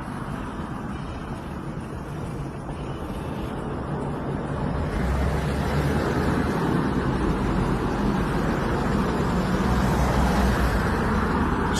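Road traffic noise, a steady rumble of vehicles that grows slowly louder.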